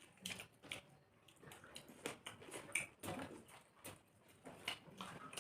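Chewing and lip smacking while eating rice and chicken curry: a series of irregular short clicks and smacks.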